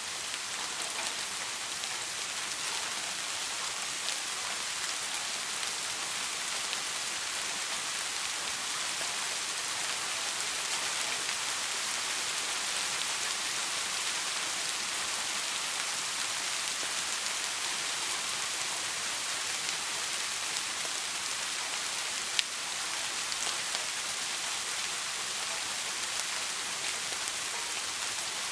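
Soft rain falling steadily, an even hiss of drops with fine ticks and one sharper drop tick about three-quarters of the way through. No thunder is heard.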